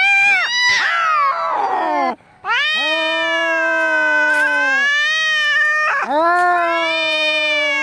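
Domestic cats caterwauling as they square off to fight: a harsh, falling screech with a hiss about a second in, then two long, drawn-out angry yowls.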